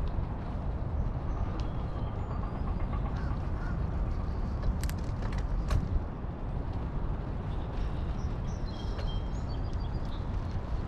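Steady low wind and rolling rumble from riding a bicycle, with a few sharp clicks near the middle and faint bird calls above.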